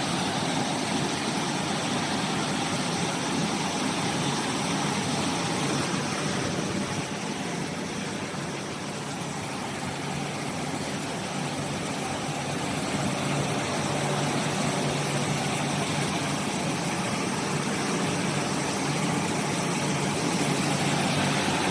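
Industrial box washing machine running, a steady, even rushing noise with a faint low hum underneath.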